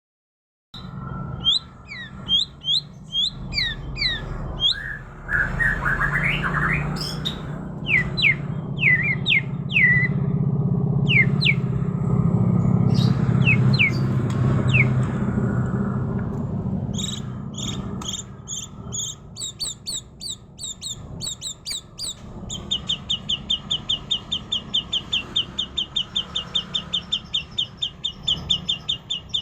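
A murai songbird singing a varied run of sharp down-slurred whistles and chirps, then breaking into a long, fast, even trill of repeated notes near the end, over a steady low hum.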